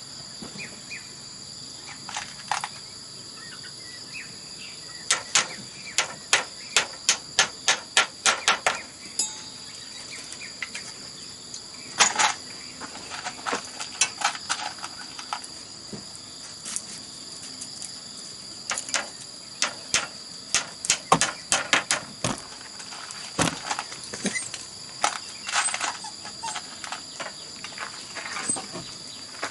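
Runs of sharp blows from a hand tool on bamboo, about three strikes a second at their quickest, broken by short pauses. A steady, high-pitched drone of crickets runs underneath.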